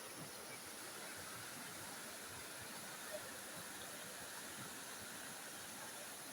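Faint, steady rushing of a waterfall's falling water, with one short tick about three seconds in.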